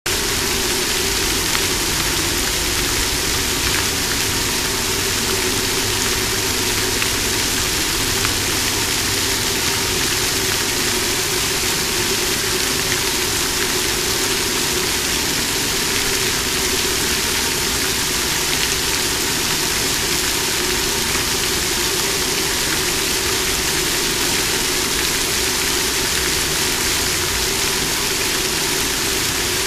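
Water fountain splashing and falling, a loud, steady rushing that does not change.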